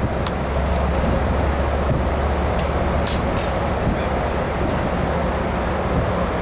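Passenger train running on the rails, a steady low rumble with a few short clicks about three seconds in.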